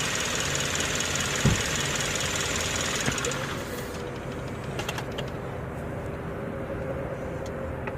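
Car engine idling under the hood, then switched off about three and a half seconds in: the higher running hiss dies away and a lower steady hum remains. A single knock comes about a second and a half in.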